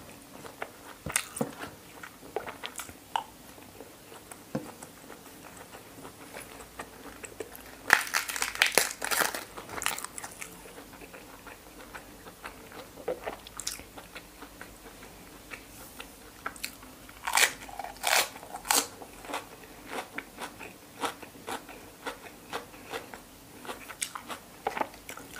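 Close-miked eating: wet chewing with crisp, crunchy bites of raw vegetable, loudest in two clusters about eight and seventeen seconds in.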